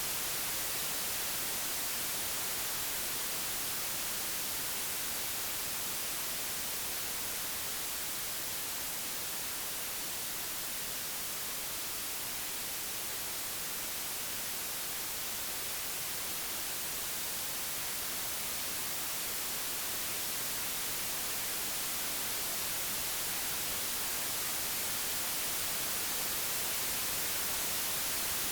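Computer-generated white noise: a steady, even hiss with no tones or clicks, easing slightly in loudness through the middle and rising again near the end.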